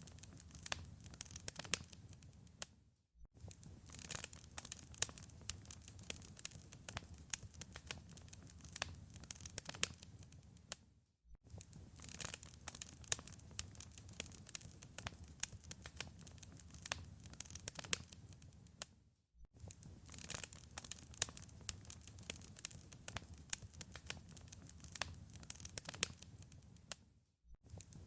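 Wood fire in a fireplace crackling, with dense, irregular sharp pops over a low rumble. The sound cuts out briefly four times, about every eight seconds.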